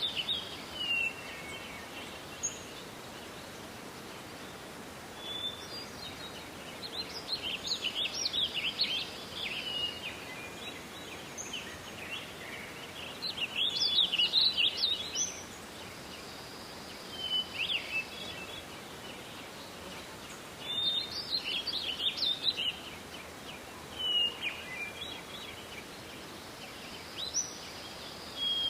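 Songbird song in short twittering phrases that recur every few seconds, over a steady background hiss of forest ambience.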